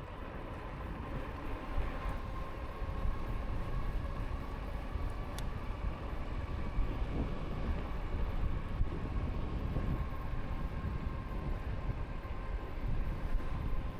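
Lankeleisi X2000 e-bike riding steadily: wind and tyre rumble with a faint steady whine, typical of the hub motor under way.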